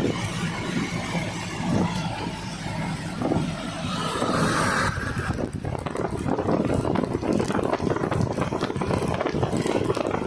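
Noise of a moving vehicle running steadily, with a dense, rapid rattle from about halfway.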